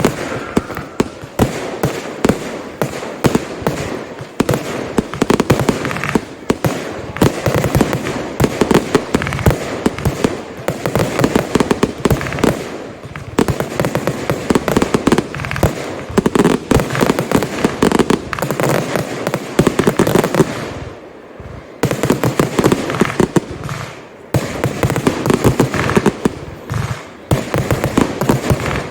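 Consumer firework display: a rapid, nearly unbroken run of bangs and crackling from many fireworks going off together, with two short lulls about three quarters of the way through.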